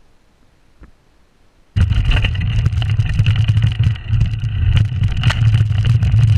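Mountain bike riding noise on an action camera: heavy rumble with tyre-on-trail noise and many clicks and rattles, starting abruptly about two seconds in and cutting off suddenly at the end.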